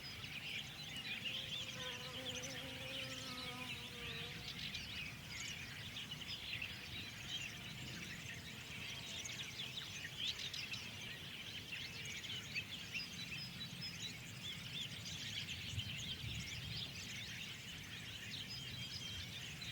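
A dense chorus of many small birds chirping and twittering without a break. A low, drawn-out pitched call sounds faintly under it about two seconds in.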